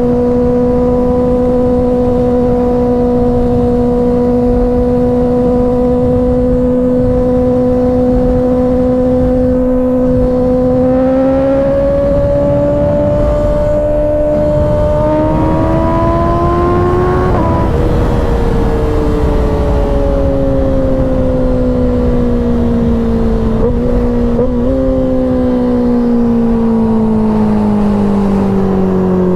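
Kawasaki ZX-6R 636's inline-four engine under way with wind rushing past: it holds a steady note, then climbs in revs under acceleration, drops sharply with a gear change, and winds down slowly as the throttle rolls off, with two quick blips of revs about two-thirds of the way through.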